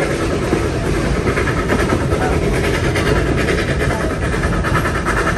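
A train running on the rails: a steady, loud, even noise with no clear beat.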